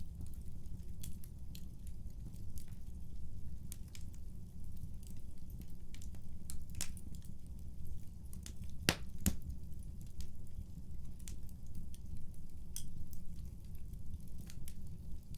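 Wood fire burning in a fireplace, with a steady low rumble of the flames and irregular sharp crackles and pops, the loudest two close together near the middle.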